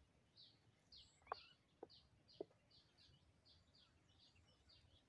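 Faint bird chirping, short high chirps repeated about two to three a second, over quiet outdoor background. Three light taps, about half a second apart, stand out in the first half.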